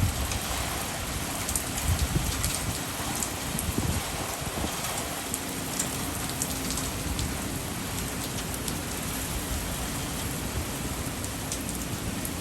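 Hurricane-force wind and driving rain, a dense steady rush with many small hits of rain. Low rumbling gusts buffet the microphone in the first few seconds.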